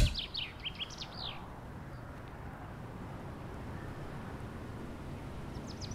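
Bird chirping in quick runs of short falling notes, in the first second and a half and again near the end, over low steady background noise.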